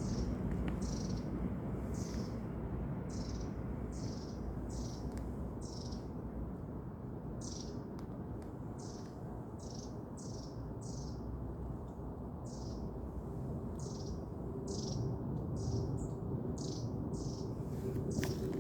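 A bird chirping over and over, short high chirps at nearly two a second, over a steady low rumble.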